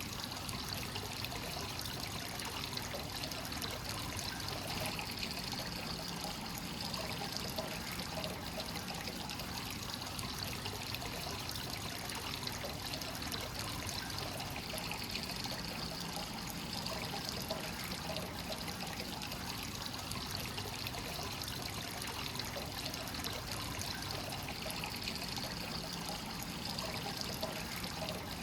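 Hot-spring water pouring steadily into a rock bath from a free-flowing source: a continuous, even trickling and splashing.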